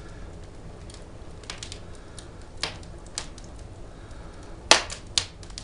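Firewood burning in a fireplace, crackling with scattered sharp pops; the loudest pop comes a little under five seconds in, with another just after.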